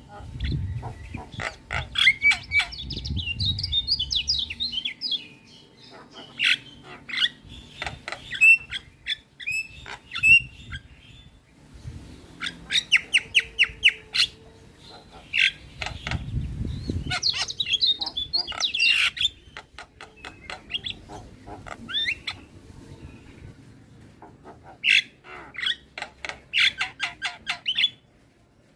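Javan myna calling: harsh squawks, clicking chatter and short whistled notes, with quick runs of repeated strokes. A low rumble sits underneath at times, and the calling stops abruptly near the end.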